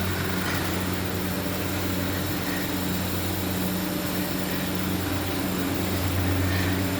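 Steam-boiler and automatic mawa-kettle plant machinery running steadily: an even low hum under a constant broad hiss.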